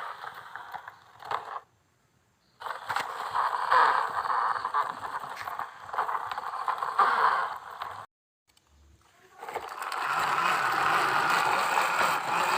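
Scraping and rustling noise in several stretches, broken by two short silent gaps.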